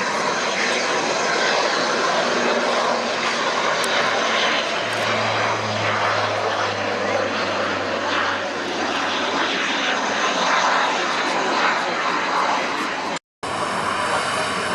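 Airliner engines running loud and steady, a dense even noise, with a low hum joining for a few seconds in the middle. The sound drops out abruptly for a moment near the end.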